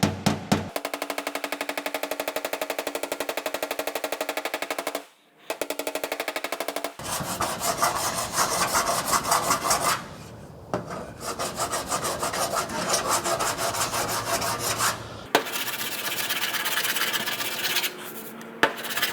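Metal body file drawn back and forth in repeated rapid scraping strokes across a steel car quarter panel, filing down the high spots around a dent crease. The strokes pause briefly a few times. It opens with a few ringing hammer taps on the sheet metal.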